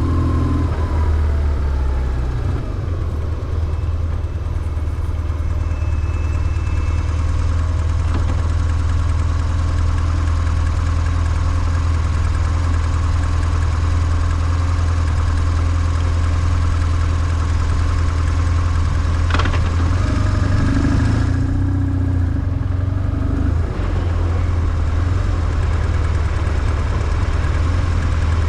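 BMW R1150GS's air-cooled boxer twin running steadily at low revs, close to idle, its sound mostly low and even.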